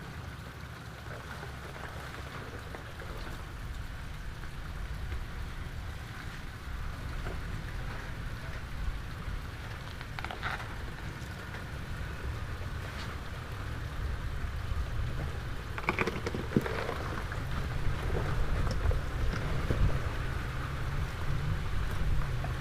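Toyota 4Runner rolling slowly over a rough dirt trail: a steady low rumble with a noisy hiss on top and a few short knocks, growing louder toward the end.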